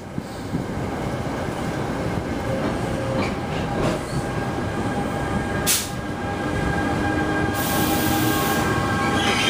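Commuter train running on the rails: a steady rumble that grows louder toward the end, with faint steady squeal tones and a sharp click a little under six seconds in.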